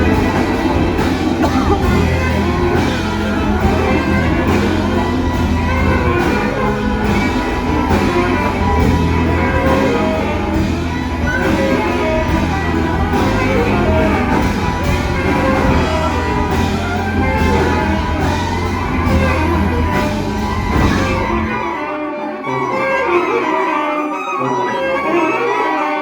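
Large improvising ensemble playing live: a dense, loud texture with bowed strings over a heavy low bass and a steady pulse. Near the end the low bass drops out, leaving lighter, higher parts.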